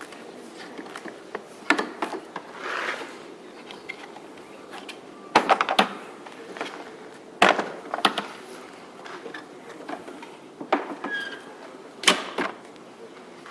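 A series of sharp clicks and knocks at irregular intervals over a faint steady hiss, like hard parts being handled and set down; the loudest come in a quick cluster about five and a half seconds in, then singly at about seven and a half and twelve seconds.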